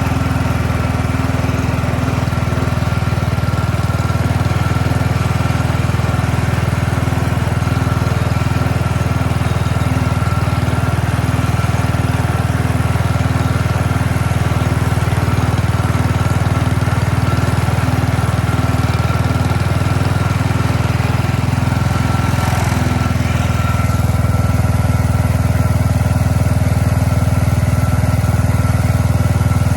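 1967 Sears Super 12 garden tractor's Tecumseh engine running steadily at a fast idle, its tone changing slightly about three quarters of the way through.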